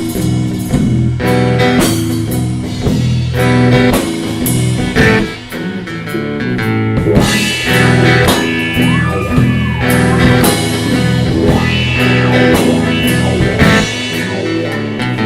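Rock band playing an instrumental passage: electric guitar over bass and a steady drum kit beat, with a bending guitar note about nine seconds in.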